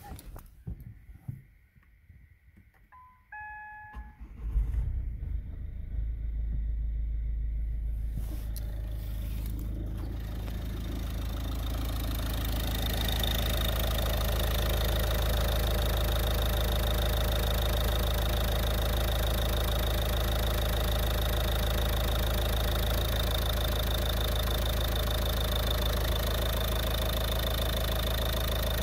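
Ford Mondeo Mk4's 2.0 TDCi four-cylinder diesel engine (QXBA) started after a couple of short beeps: it catches about four seconds in and settles into a steady idle.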